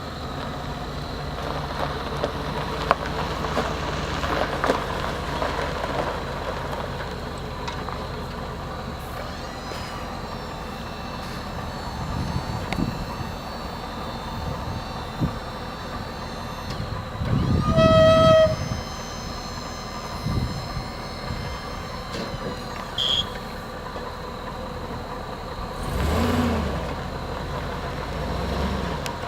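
GMC dump truck engine running steadily, with one short honk of the truck's horn about two-thirds of the way through.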